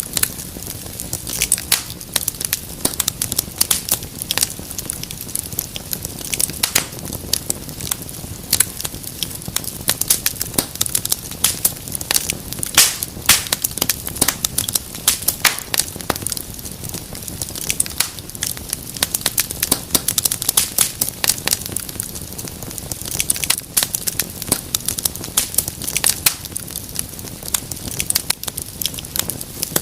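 Wood fire crackling in a fireplace, with frequent irregular sharp pops and snaps over the steady low rush of the flames.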